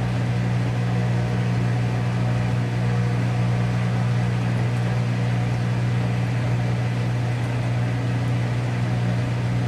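Whirlpool Duet Sport front-load washer draining: the drain pump hums steadily while the drum turns slowly to balance the load before spinning.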